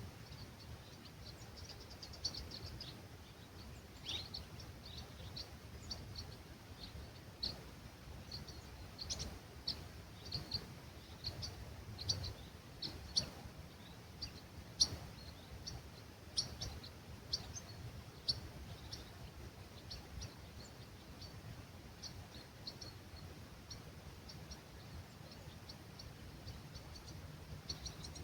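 Dawn birdsong: small songbirds giving many short, high chirps, busiest through the middle, over a low steady rumble of breeze.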